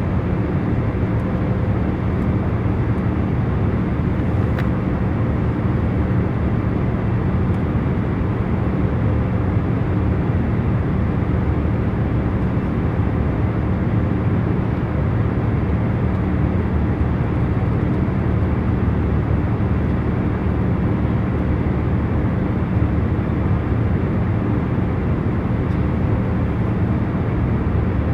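Airplane cabin noise in cruising flight: a steady low rumble with a constant hum, unchanging throughout.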